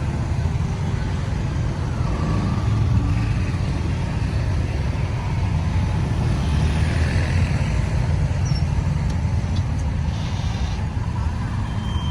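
Road traffic noise on a busy road: a steady low rumble of vehicle engines and tyres.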